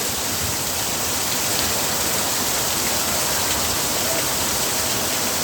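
Heavy rain falling steadily, a dense even hiss of downpour on surfaces.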